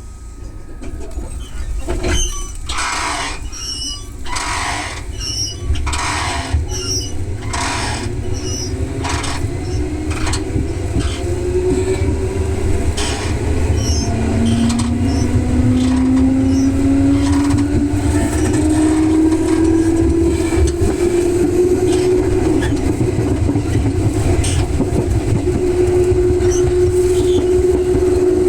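Electric train running, heard on board: the wheels clack over rail joints several times early on, then the traction motor's whine rises steadily in pitch as the train accelerates.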